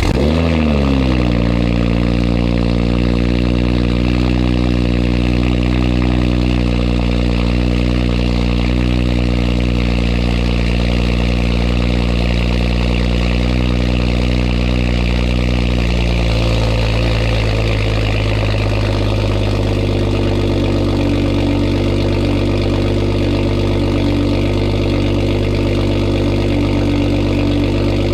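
2021 Toyota Supra engine with a muffler delete and downpipe, cold-started: it catches and flares up briefly, then holds a loud, steady high cold idle. About 16 seconds in the idle drops to a lower pitch and stays steady.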